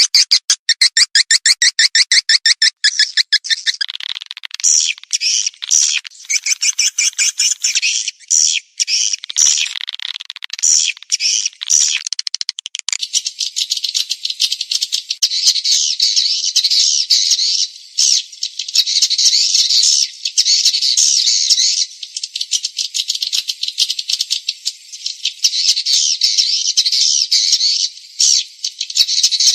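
Edible-nest swiftlet calls from a swiftlet-house lure recording, the kind played to draw swiftlets in to roost and nest. For the first three seconds or so it is a rapid, even train of high clicking chirps; it then turns into dense, high twittering chatter.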